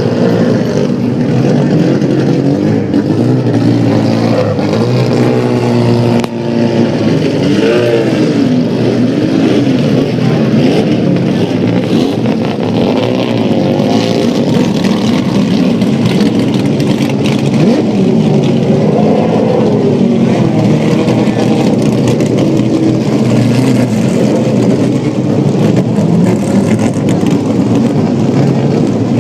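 Vintage race car engines running loud and revving, several at once, their pitch rising and falling again and again as they pass.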